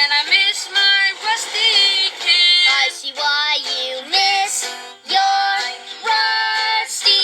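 Music: a high voice singing a song in short phrases over light instrumental backing.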